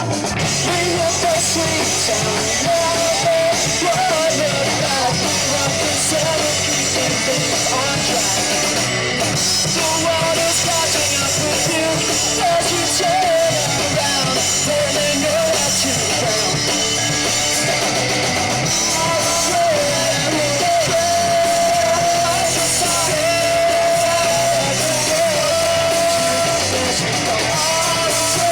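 Live punk-rock band playing a song loudly: electric guitars, bass and drum kit, starting right at the beginning, with shouted vocals.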